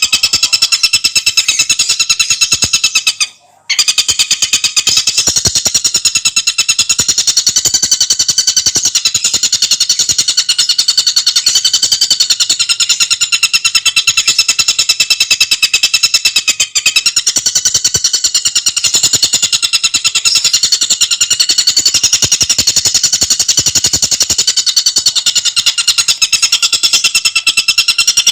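Tengkek buto bird singing a loud, continuous rapid-fire trill of fast repeated high notes, broken by one brief pause about three seconds in.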